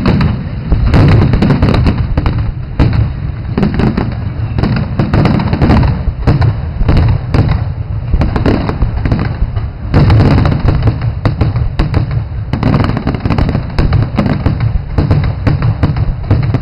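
Aerial fireworks display: a rapid, continuous barrage of shell bursts and crackling bangs, with heavier booms about a second in and again around eight to ten seconds in.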